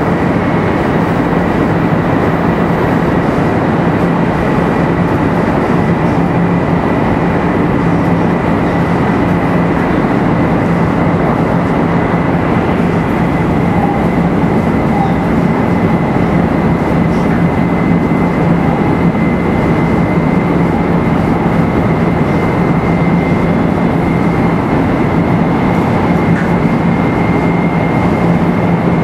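500 series Shinkansen car, an all-motored unit with Toshiba GTO VVVF inverter control, running steadily on the line: a continuous rumble of wheels and track with a low hum and a thin high whine that creeps up very slightly in pitch.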